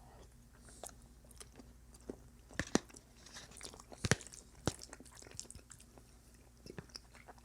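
A man chewing and biting a mouthful of food close to the microphone, with scattered sharp mouth clicks, the loudest about two and a half and four seconds in.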